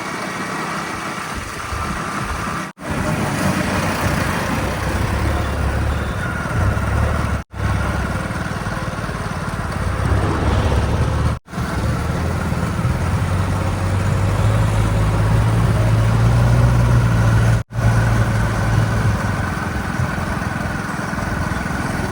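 Diesel engine of heavy machinery running steadily, stronger for a few seconds past the middle. The sound is broken by brief dropouts, four times.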